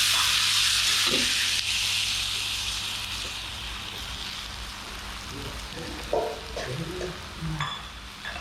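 Food frying in hot oil in a pan: a loud sizzle that comes on suddenly, as if something has just gone into the oil, then slowly dies down.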